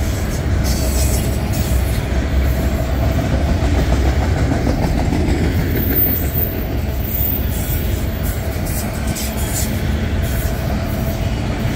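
Loaded autorack freight cars rolling past close by: a steady rumble of steel wheels on rail with scattered light clicks.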